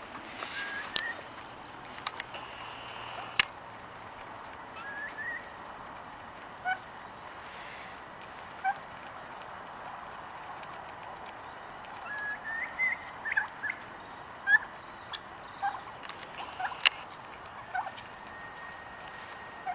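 A family of wild turkeys calling softly while they feed: short high peeps and clucks scattered throughout, with a few sharp clicks.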